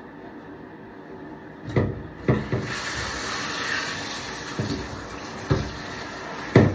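Bathtub tap water comes on about two seconds in and runs as a steady hiss, rinsing the soap out of washed chickens' feathers. There are several knocks and bumps along the way.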